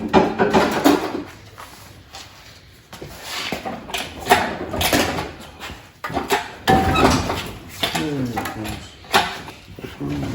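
Knocks, clatter and scraping of objects being handled and moved, with a voice speaking indistinctly now and then.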